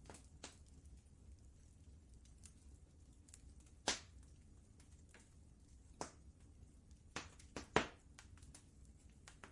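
Wood fire crackling in a fireplace: scattered sharp pops and snaps at irregular intervals, two of them louder than the rest, over a faint steady low rumble.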